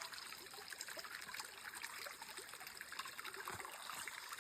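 Shallow stream water trickling steadily.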